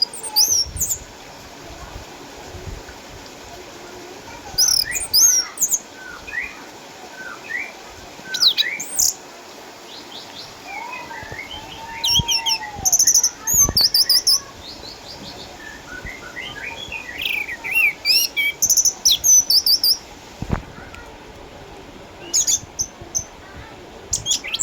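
Orange-headed thrush singing: bursts of quick, varied high whistles and chirps, a few seconds apart, with short pauses between phrases.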